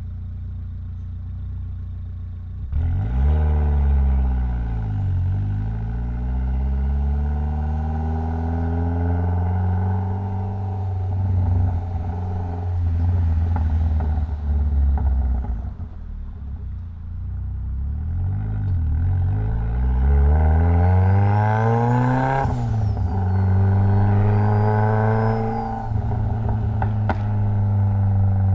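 Mitsubishi Lancer Evolution X's turbocharged 2.0-litre four-cylinder engine running steadily, then accelerating hard, its pitch climbing and dropping sharply at each gear change, with a hard pull and shift about three-quarters through.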